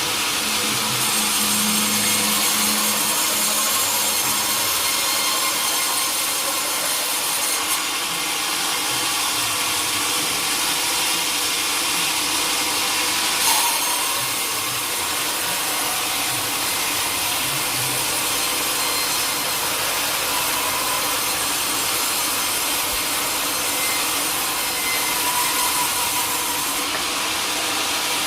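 Sawmill blade cutting steadily through a teak log: a continuous, even sawing noise, strongest in the high range, with one brief click about halfway through.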